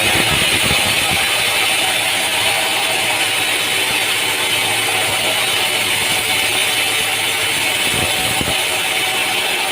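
Sawmill machinery running with a steady engine noise, with a couple of low thumps at the start and about eight seconds in.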